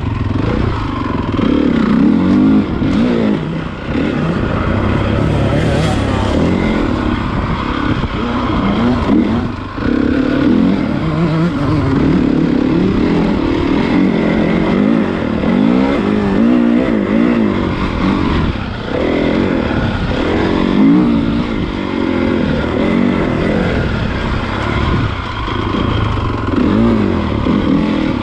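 Honda CRF450 single-cylinder four-stroke motocross bike engine being ridden, its revs rising and falling over and over as the throttle is opened and closed.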